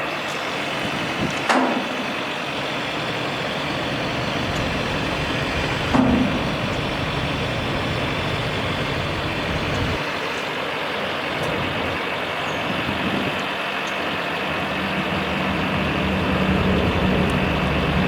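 Ford F650 dump truck running steadily, with a couple of short knocks; a low hum grows a little louder over the last few seconds.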